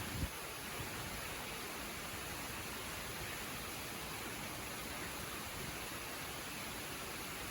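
Waterfall: a steady rush of falling water, with a brief low thump just after the start.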